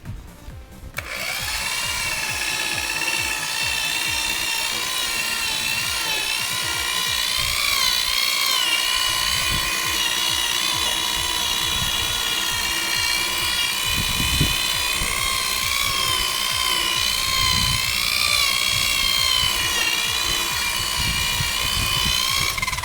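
Rotary buffer with a wool pad polishing a plastic headlight lens at the final-glaze stage. It gives a steady high motor whine that starts about a second in, wavers in pitch as the pad's load changes, and begins to wind down at the very end.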